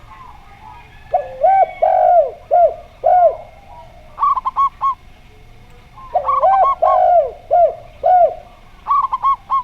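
Zebra dove (perkutut) and spotted dove (derkuku) cooing. There are two phrases of lower, arching coos, each followed by a quick run of short, higher notes, with a last short run near the end.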